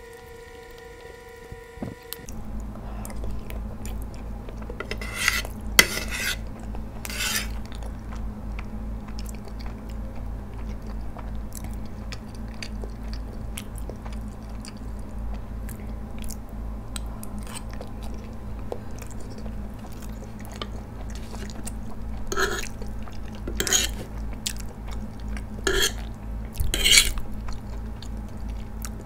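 Close-up eating sounds: chewing soft garlic bread and creamy penne pasta, with a metal fork clinking and scraping on ceramic plates, over a steady low hum. Sharp clicks cluster twice, about five seconds in and again near the end. A steady pitched tone sounds for the first two seconds.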